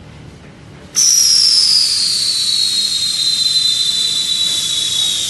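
A loud hiss of escaping air with a whistle in it, starting suddenly about a second in, the whistle falling slowly in pitch as it goes on.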